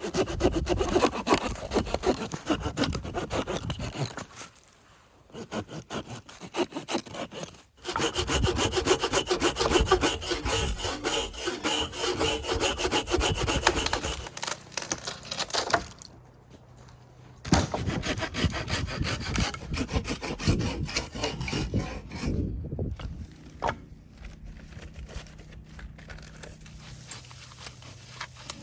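A hand saw cutting through wood in rapid back-and-forth strokes, in several bouts with short pauses between them. The strokes grow fainter in the last few seconds.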